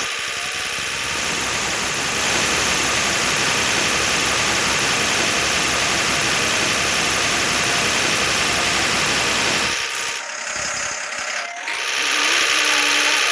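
Tractor engines running hard under heavy pulling load, a steady loud roar. It dips briefly about ten seconds in, then picks back up.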